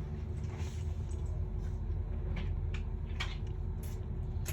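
A steady low hum with a few short, light clicks and taps in the second half, as small tools and phone parts are handled during reassembly.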